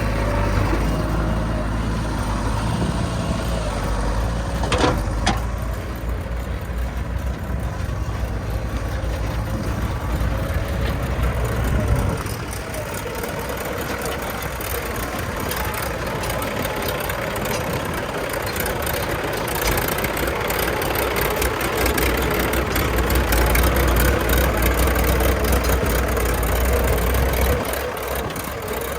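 Diesel engines of heavy machinery, a backhoe loader and tractors, running steadily. The low rumble is heavier for the first twelve seconds, eases, and comes back strongly for a few seconds near the end. There is a single sharp clack about five seconds in.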